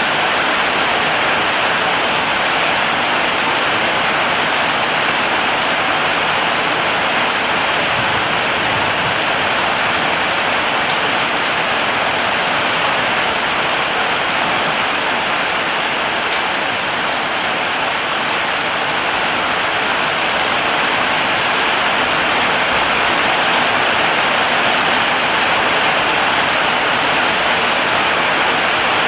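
Heavy rain falling steadily on foliage, a dense even hiss with no distinct drops or thunder.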